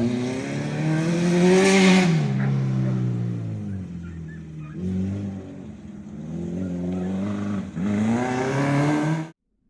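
Acura RSX race car's engine lapping a dirt track, revving up and dropping back several times as it accelerates and lifts off. The sound cuts off suddenly near the end.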